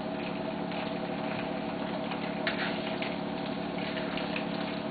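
Hot oil sizzling in a wok after chicken has been deep-frying for about ten minutes, over a steady mechanical hum. A sharp clink sounds about two and a half seconds in.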